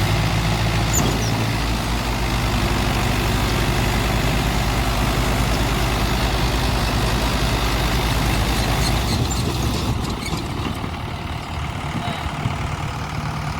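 Tractor diesel engine running hard with a low, even beat, then easing off and quieter about ten seconds in.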